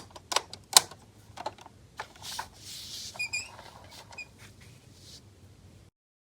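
Small plastic toys being handled: a run of sharp clicks and knocks, then a rubbing, brushing sound with a few faint short squeaks, and the sound cuts off suddenly near the end.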